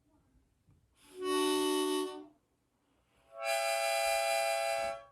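Hohner harmonica blown in two held chords, each about a second and a half long, the second higher in pitch than the first.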